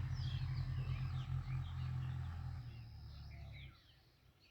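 Small birds chirping with many short, quick calls, over a low rumble that cuts off suddenly near the end.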